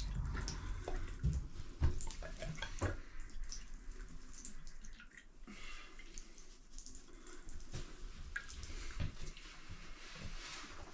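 Residual water running out of an opened tap after the house supply has been shut off, the flow dying away over the first few seconds and trailing off into scattered drips: the lines are draining down.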